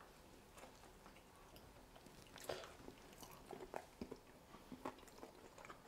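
Faint chewing of grilled chicken bitten off a skewer: soft, scattered mouth clicks and squelches against near silence.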